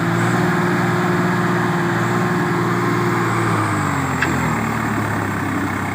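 Swaraj tractor's diesel engine running steadily, then its engine speed drops about three and a half seconds in as it throttles back.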